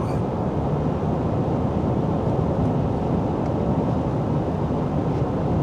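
Steady road and engine noise heard from inside a vehicle cruising on a highway, with a low, even hum.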